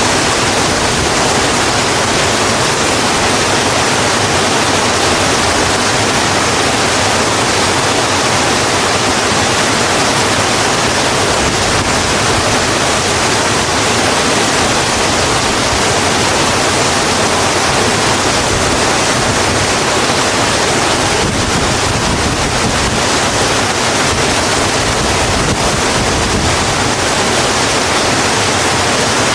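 Steady, heavy rain falling, an even unbroken hiss with no distinct drops or thunder.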